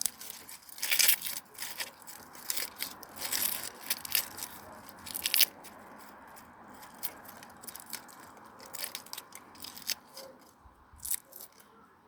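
Dry plant matter being crunched and torn by hand: a run of irregular crackles, dense and loud for the first half, then sparser and quieter.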